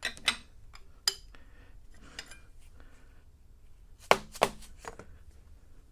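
Sharp metal clinks and taps from adjusting a clamped cast iron straight edge on a milling machine table: a few scattered ones, then the two loudest about four seconds in, close together.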